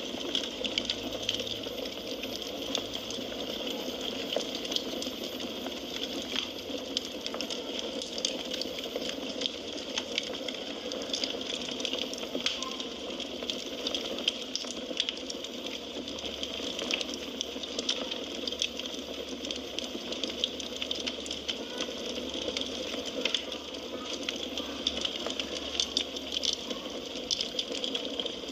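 Firewood burning in a fireplace: a steady hiss with frequent small irregular crackles and pops.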